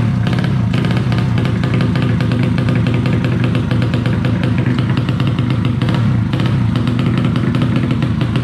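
A 130cc motorcycle engine running loud and steady, holding an even speed with no clear revving up or down.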